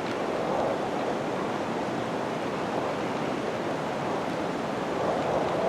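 A steady rushing noise with no clear pitch, growing a little louder near the end.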